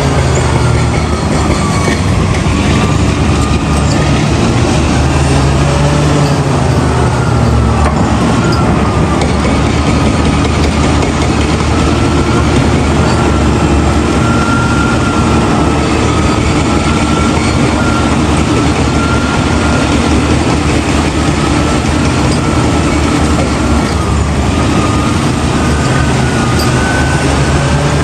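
Heavy diesel earthmoving machinery running steadily at work, a deep engine drone with a whine above it that wavers gently in pitch.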